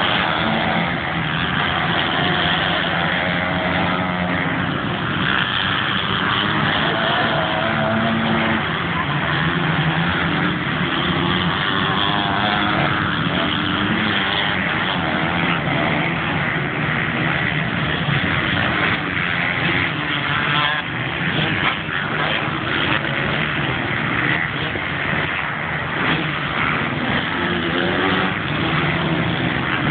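Several motocross dirt bikes running on the track, their engines revving up and down and overlapping.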